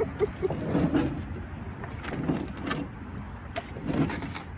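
Canoe paddling: paddle strokes through the water, coming every second or so, with light knocks of the paddle against the hull.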